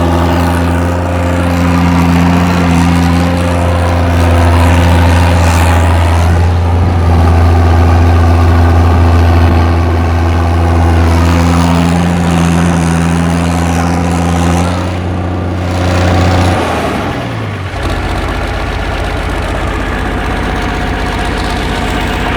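Tractor diesel engine running steadily at raised revs, then throttling down about 17 seconds in and settling into a lower, evenly pulsing idle.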